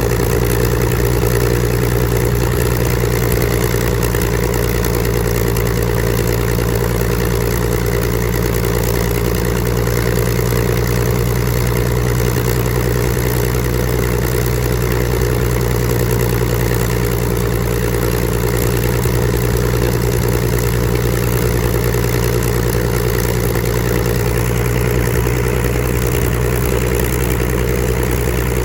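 Spitfire Mk XIV's Rolls-Royce Griffon V12 aero engine running steadily on a ground run, its speed holding constant throughout.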